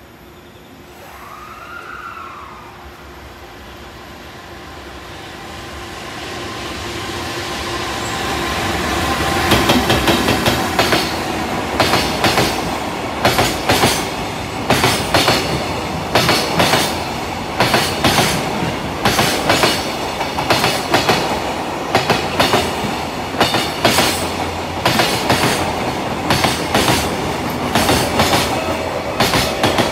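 JR Freight container train hauled by an EF210 electric locomotive passing through a station without stopping. The running noise swells for about ten seconds as the locomotive approaches and goes by. Then the container wagons' wheels clack over the rail joints in a steady rhythm, a group of clacks about once a second.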